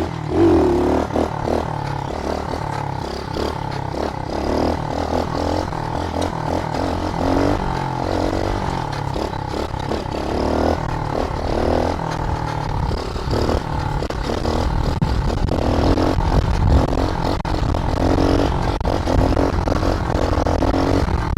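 SSR110 pit bike's small single-cylinder four-stroke engine running as it is ridden, its revs rising and falling again and again as the throttle is opened and eased off.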